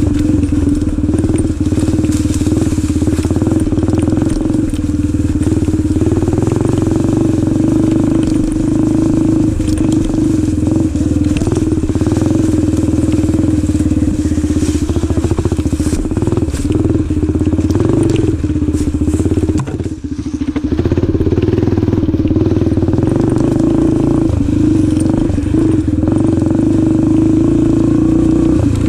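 Yamaha TT-R125 dirt bike's single-cylinder four-stroke engine running steadily under way, with a brief drop in engine sound about two-thirds of the way through.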